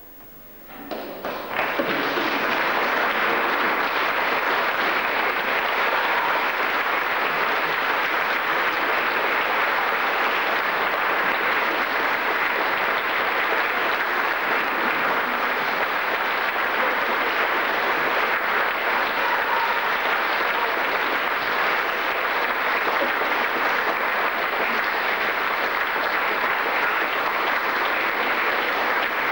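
Audience applauding. The applause breaks out about a second in and then goes on steadily.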